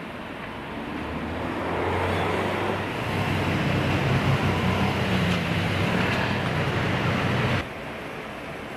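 Motor vehicle passing close by: engine and road noise build up over about two seconds, hold steady, then cut off abruptly near the end.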